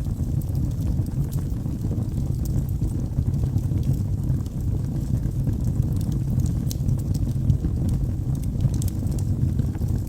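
Wood fire of burning logs in a fireplace, with a steady low rumble of flames and scattered small, sharp crackles.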